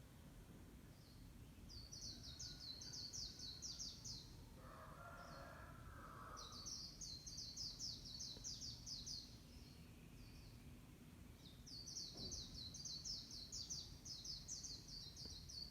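A small songbird singing in three long bursts of rapid, high chattering notes, each lasting two to four seconds, with a fainter, lower call between the first two bursts.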